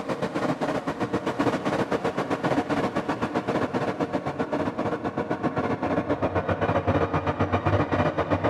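Sampled 1928 Steinway Scoring Piano with its timbre reshaped by the Soundpaint Color effect, playing rapid repeated notes at several strikes a second over sustained ringing tones, with the low register growing stronger in the second half.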